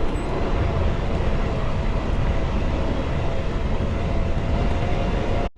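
Riding noise from an electric road bike in motion: low wind rumble on the microphone and tyre noise, with a faint steady whine running under it. The sound cuts out for an instant near the end.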